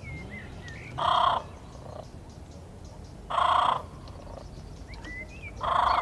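A large bird calling loudly three times, each call about half a second long and repeating about every two and a half seconds, with faint whistled songbird notes in between.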